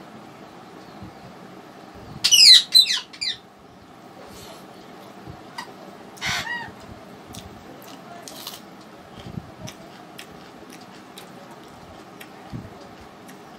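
A bird calls loudly about two seconds in with a quick run of several falling high notes, then once more, briefly, about six seconds in. Light clicks of someone eating by hand are underneath.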